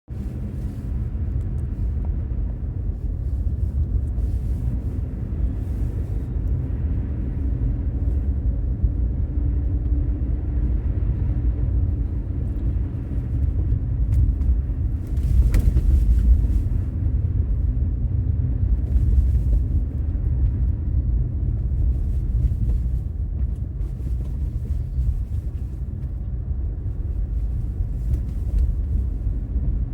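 Infiniti Q50 Red Sport 400 driving, its 3.0-litre twin-turbo V6 and the road giving a steady low rumble that swells briefly about halfway through.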